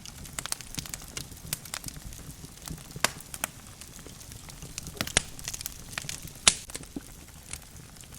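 Logs burning in a fireplace, crackling with irregular sharp pops over a low steady rumble of the flames; the loudest pop comes about six and a half seconds in.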